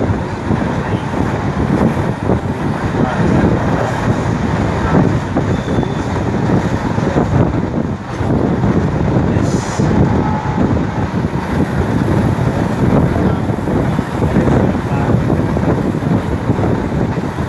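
Passenger train running along the line, a steady loud rumble and rattle of its wheels on the rails, with a brief dip about eight seconds in.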